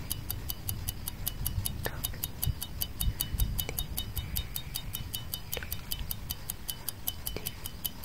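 Clock ticking sound effect: fast, even high ticks about five a second, with a softer knock about every two seconds, over a low rumble.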